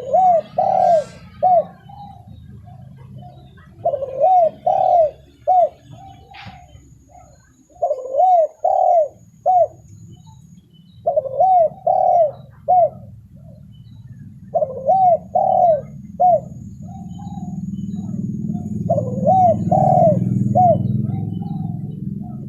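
Spotted dove (tekukur) cooing: short phrases of three or four coos repeated about every four seconds, played as a lure call for trapping. Beneath it is a low background rumble that grows louder in the last few seconds.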